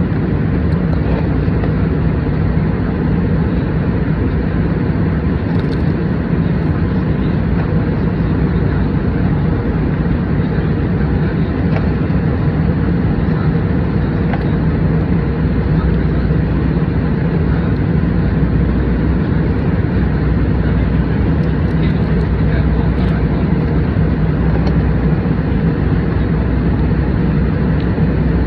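Steady cabin noise of an airliner in flight: a continuous low rumble of engines and airflow, unchanging throughout.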